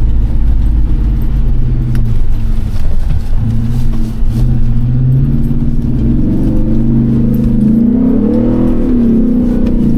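First-generation Ford Raptor's V8 engine running under load on a dirt course, heard from inside the truck, its pitch swinging up and down with the throttle from about seven seconds in, over a light rattle.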